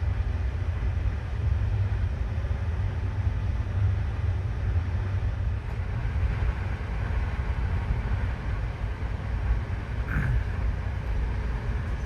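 Passenger train running, with a steady low rumble and rushing noise from the moving carriage. A short higher sound comes through about ten seconds in.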